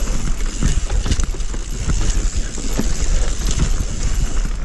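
Mountain bike clattering down a rough trail: a rapid, irregular run of knocks and rattles from the frame and chain as the tyres hit rocks and roots, over a steady low rumble.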